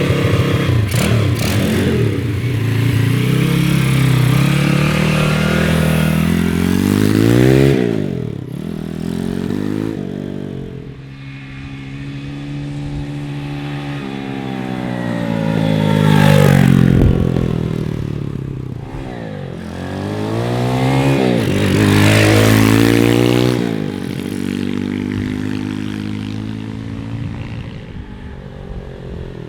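Honda CT70 mini bike with a swapped-in 140cc four-speed engine, revving hard and accelerating through the gears. Its pitch climbs and then drops sharply at each shift, louder about halfway through and again a few seconds later, then fading near the end. The exhaust goes through a restrictive lawnmower-style muffler.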